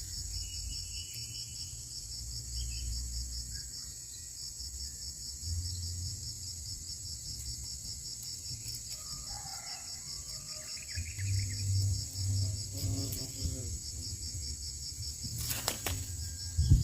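Steady high-pitched insect chorus, a fast pulsing trill, over a low rumble, with a sharp click near the end.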